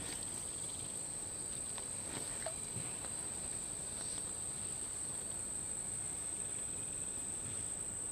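A steady, high-pitched insect trill that holds one pitch without a break, with a few faint clicks.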